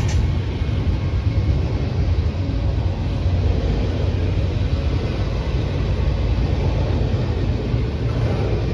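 CSX intermodal freight train rolling past, a steady low rumble with a hiss above it that holds even throughout.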